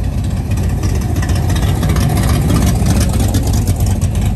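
Classic car engines running loudly as cars drive slowly past, a low, steady exhaust sound.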